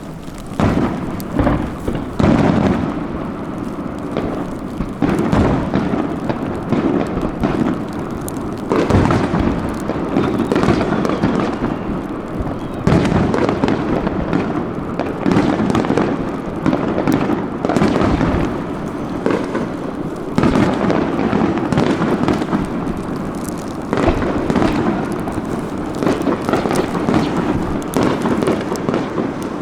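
Aerial fireworks going off in a rapid, continuous barrage of booming bursts and crackles, many overlapping, with echoing rumbles between them.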